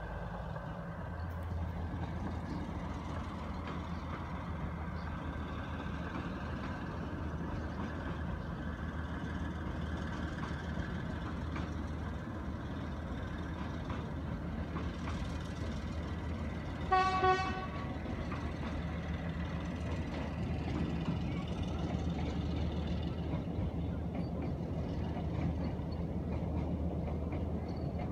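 Narrow-gauge diesel train passing slowly, with a steady low engine drone, and one short horn toot a little past halfway.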